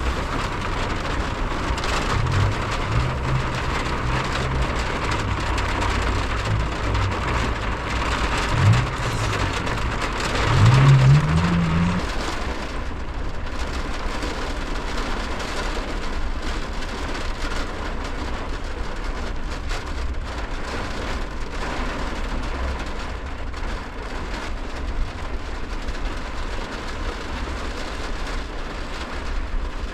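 Steady rain falling, with a continuous low rumble beneath it. A few brief low tones come through in the first twelve seconds, the loudest a short rising one about eleven seconds in.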